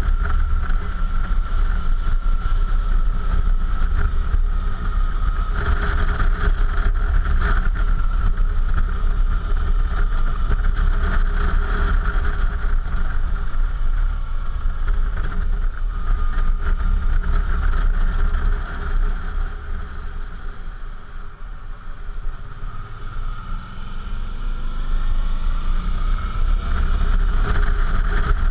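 Suzuki V-Strom motorcycle engine running while riding, with wind rushing over the action camera's microphone. Past the middle the engine goes quieter for a few seconds, then its pitch rises again as it accelerates.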